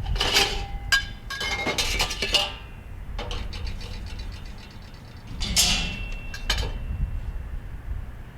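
Metal parts of a charcoal kettle grill handled and set against each other during assembly: several clanks and clinks with a brief metallic ring, the busiest stretch in the first two and a half seconds and another clank about six seconds in.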